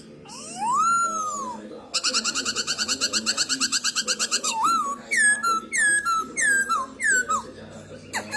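Black-throated laughingthrush (Poksay Hongkong) singing. It gives one long whistle that rises and falls, then a fast chattering run of notes, then a series of about five clear whistled notes, each falling in pitch.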